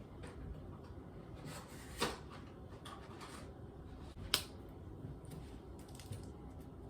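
Quiet handling of small objects, with two short clicks about two seconds in and just past four seconds in.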